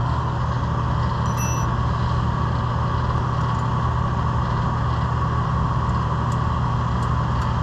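True two-door commercial refrigerator's condensing unit running steadily, a low compressor hum with the whir of the condenser fan, the unit having just restarted on its own with its new thermostat.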